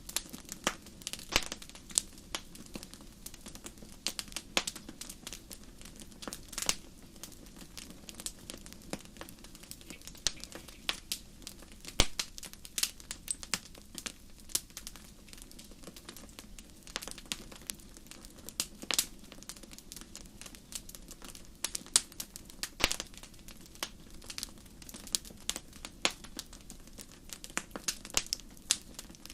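Campfire crackling: irregular snaps and pops, a few much sharper than the rest, over a steady low hiss of the burning fire.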